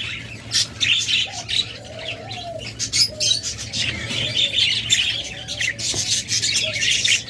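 A flock of budgerigars chirping and chattering without pause, a dense high twittering, with a few soft low coos underneath.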